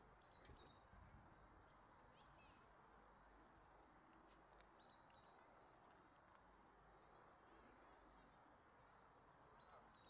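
Faint, short, high bird chirps scattered through a near-silent outdoor background with a faint steady hiss and low rumble.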